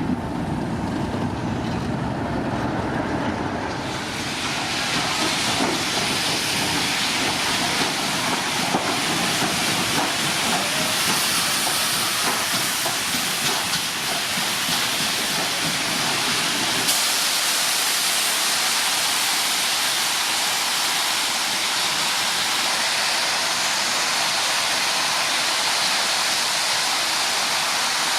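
Steam locomotive letting off a loud, steady hiss of steam that starts about four seconds in, with a low rumble underneath that drops away about two-thirds of the way through.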